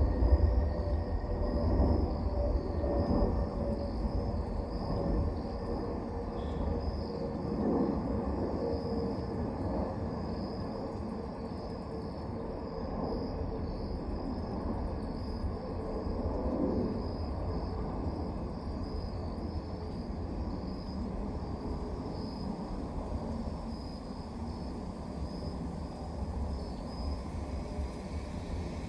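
Outdoor night ambience: insects chirping steadily in a high, pulsing band, over a low distant rumble that is loudest in the first few seconds and then settles. A faint hum slowly drops in pitch through most of it.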